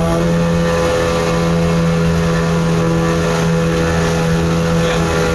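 Six-seater motorboat's engine running steadily under way, heard from on board: an even, unchanging hum.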